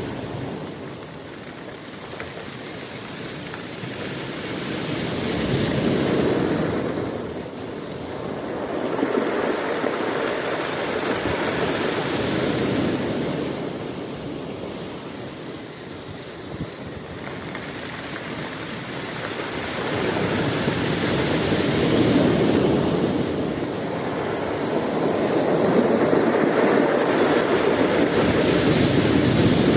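Sea waves breaking and washing up the shore, the surf swelling and easing every several seconds.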